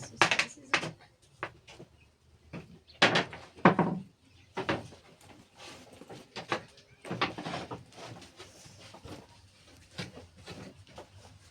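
A series of irregular knocks and clatters: about a dozen sharp impacts at uneven intervals, the loudest a few seconds in, with quieter handling noise between them.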